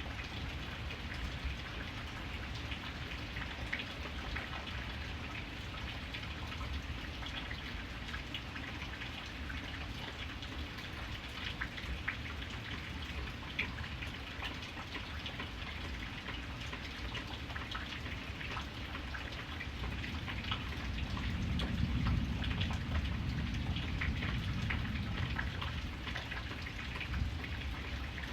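Steady rain, with many sharp individual drops striking a surface over a constant hiss. A low rumble swells up about three-quarters of the way through and fades again.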